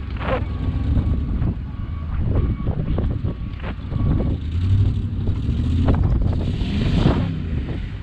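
Car driving, with a steady low rumble of engine and road noise, wind noise on the microphone and scattered light knocks. A louder rush of hiss comes near the end.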